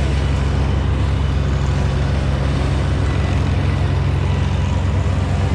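Heavy work-truck engine running steadily at a constant speed, a low even drone.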